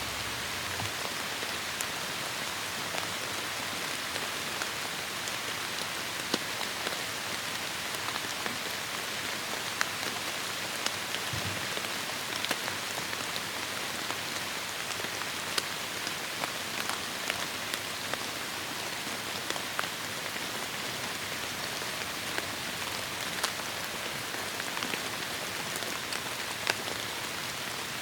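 Heavy rain falling steadily on forest foliage: a dense, even hiss with scattered close, sharp drop hits.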